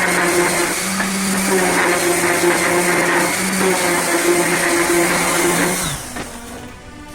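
Power tool motor running steadily, then cutting out about six seconds in.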